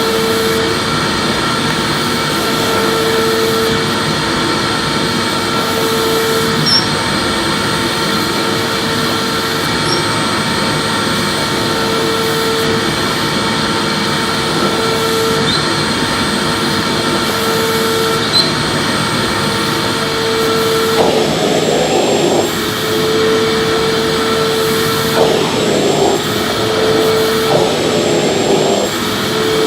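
Electric vacuum cleaner running steadily with a high motor whine, being swept back and forth: a lower tone comes and goes every couple of seconds, and from about two-thirds of the way through rougher surges of airflow join in.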